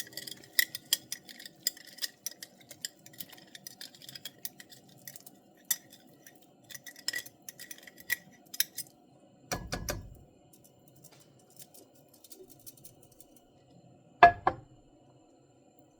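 A metal utensil clinking against a glass jar and a pot, many small clinks over the first nine seconds while home-canned chicken is scooped into the gravy. A duller thump follows about ten seconds in, and a single sharp knock near the end is the loudest sound.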